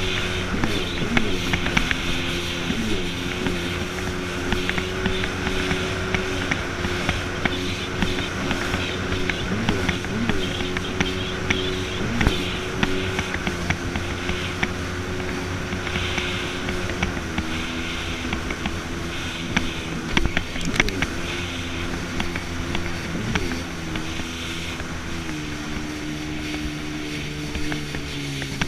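Jet ski engine running steadily at speed over rushing water and wind noise. Its pitch drops a step in the second half and again later, then dips and climbs back near the end. A few sharp thumps are heard along the way.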